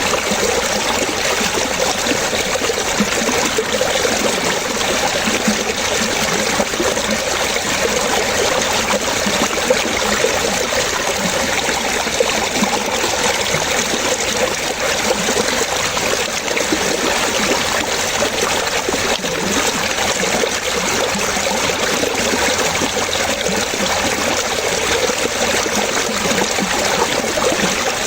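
Running water trickling and splashing steadily, with many small bubbling notes over an even rush.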